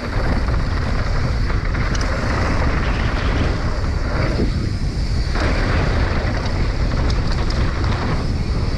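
Wind buffeting the action camera's microphone during a fast mountain bike run down a dirt jump trail, with a steady rushing noise that thins briefly twice.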